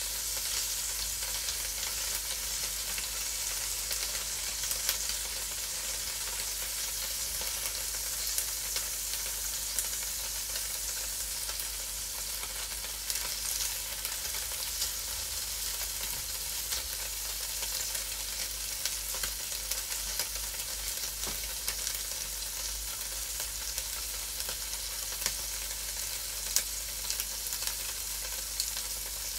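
Cubes of tofu sizzling steadily as they fry in oil in a frying pan, with a few light clicks as a wooden spatula turns them.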